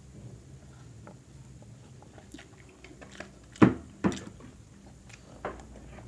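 Eating at close range: quiet chewing with a few sharp clicks and smacks, the loudest two about three and a half and four seconds in.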